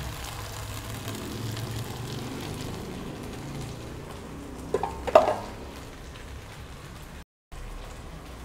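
Onions frying in a pan with a steady low sizzle. About five seconds in comes a quick cluster of sharp knocks, a utensil striking the pan. The sound cuts out for a moment near the end.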